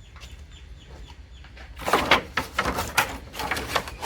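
Irregular clattering and knocking of metal parts starting about two seconds in, as a Rheem continuous-flow gas hot water heater is being pulled apart for scrap.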